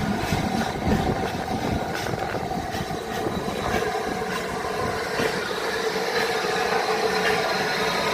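A train going by with a locomotive engine running steadily.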